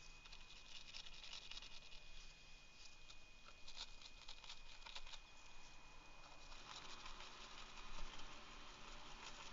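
Faint, irregular scratchy patter of a small brush scrubbing alcohol over a freshly soldered turret terminal to clean off the flux residue. A steady high-pitched whine sits underneath.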